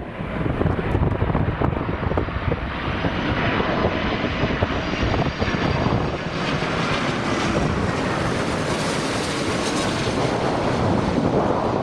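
Airliner's engines passing overhead on landing approach: a steady roar and rumble with a high whine that slowly drops in pitch.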